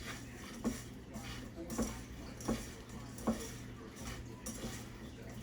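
Kitchenware clinking and knocking while chicken is mixed with seasoning: four sharp separate knocks, roughly one a second, over faint background.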